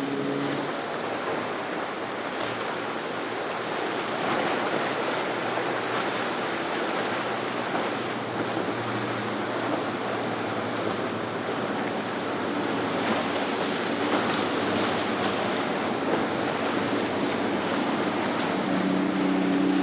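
Steady rush of surf and churned water with wind buffeting the microphone, and a faint low hum of a passing boat's engines under it.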